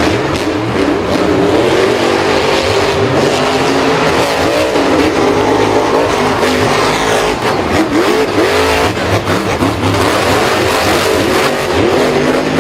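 Several vehicle engines revving at once, their pitches rising and falling and overlapping without a break.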